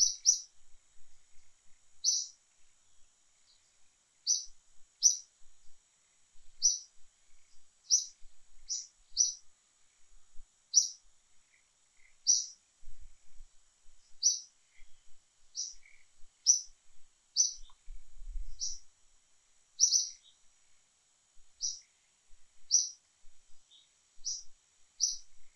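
A bird chirping: short, sharp, high-pitched chirps, often in pairs, repeated every second or two over a faint steady high-pitched hiss.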